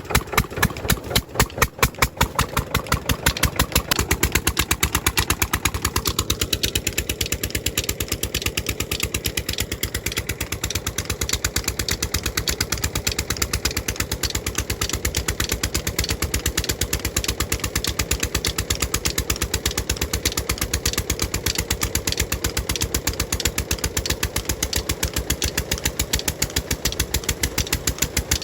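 Tube-well diesel engine running with a regular chugging beat. It picks up speed over the first few seconds, then settles to a steady, even pace.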